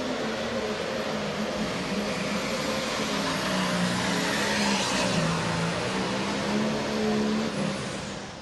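A pro stock pulling tractor's diesel engine, a John Deere 8410, runs at full power hauling the weight sled. Its note sags about halfway through as the sled bogs it down, picks back up, then dies away near the end as the throttle comes off at the end of the pull.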